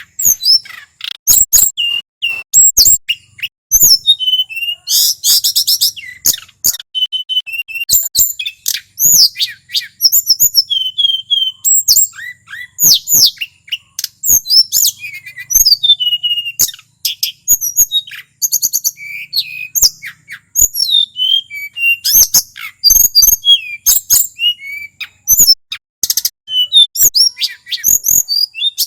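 A male tledekan gunung (mountain flycatcher) singing continuously and in full song: fast, high-pitched runs of chirps, trills and sharp notes in phrases of a second or two with short pauses between them.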